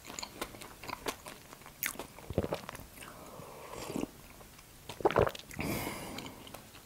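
Close-miked chewing of a soft sugar-coated apple-cinnamon donut, with many small wet mouth clicks. About three to four seconds in comes a sip of tea from a mug, then a brief cluster of louder mouth sounds.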